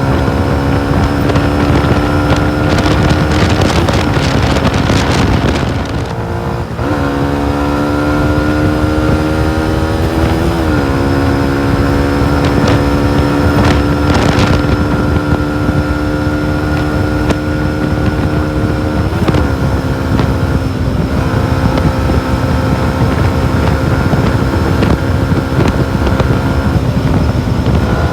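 Yamaha MT-125's single-cylinder four-stroke engine running under way at fairly steady revs, with the note changing abruptly at gear changes about a quarter, a third and two thirds of the way through. Wind rushes over the microphone throughout.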